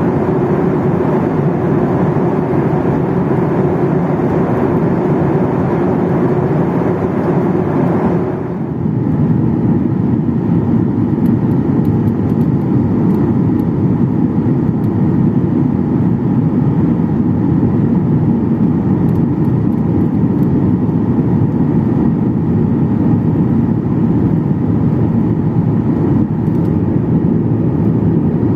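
Loud cabin noise of a Boeing 737-800, its CFM56 engines and airflow making a steady rumble. About eight seconds in the sound dips briefly and changes, and a lower, rougher rumble carries on.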